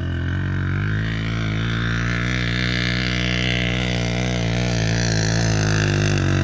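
Motorcycle engine running steadily at a constant speed, an even low drone.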